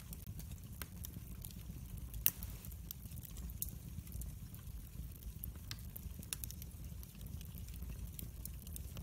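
Wood fire burning in a fireplace: a low steady rumble of flames with scattered crackles and pops, one louder pop a little over two seconds in.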